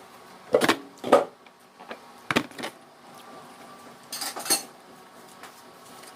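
Cutlery and dishes clinking during a meal: a few separate sharp knocks in the first three seconds, then a brighter run of clinks about four seconds in.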